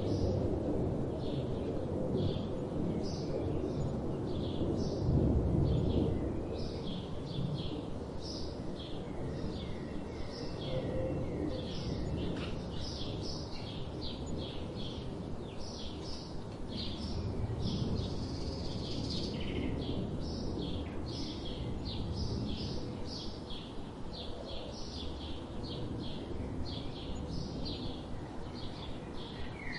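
Small birds chirping over and over, many short high calls a second, over a steady low background rumble that is louder for the first few seconds.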